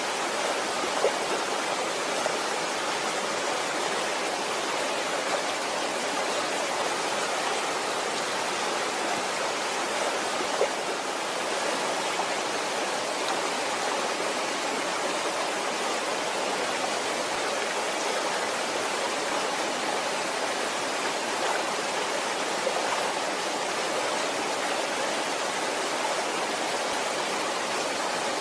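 Waterfall: a steady, even rush of falling water, with a few small splashes.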